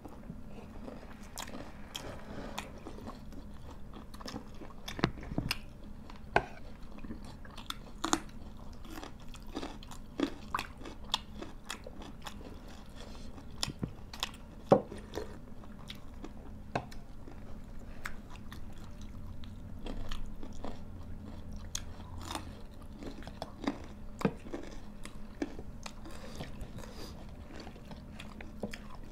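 People eating close to the microphone: chewing and crunching food, with scattered short crunches and clicks.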